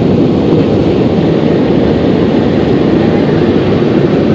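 Car wash air dryer blowers blasting air over the car, heard from inside the cabin as a loud, steady rush of air.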